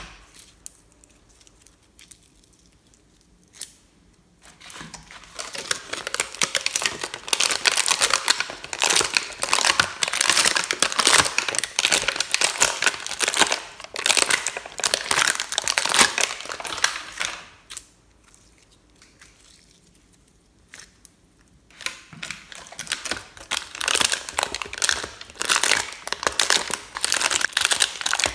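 Slime being squished and kneaded by hand, a dense wet crackling and popping. It comes in two long stretches with short quiet pauses before each.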